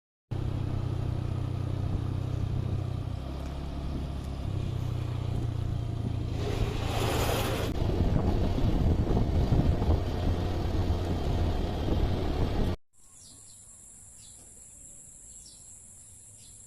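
Vehicle engine and road noise heard while riding along: a steady low hum, with a swell of rushing noise about seven seconds in. Near thirteen seconds it cuts suddenly to a faint, steady high-pitched drone of insects with a few faint chirps.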